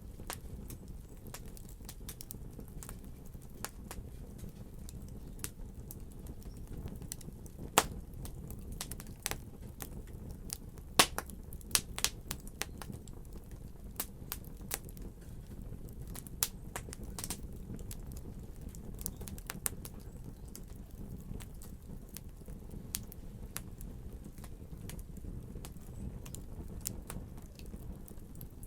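Fire crackling: irregular sharp pops and snaps over a steady low rumble, with a few louder pops about a third of the way in.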